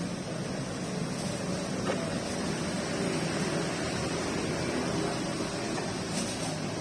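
Steady rain falling, over a continuous low hum of road traffic.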